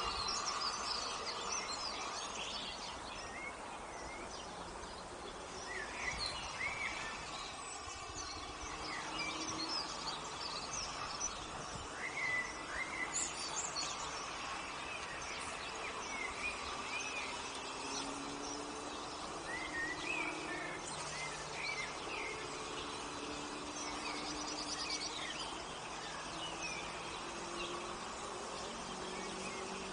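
Outdoor ambience of songbirds chirping and calling, many short notes throughout, over a steady background hiss.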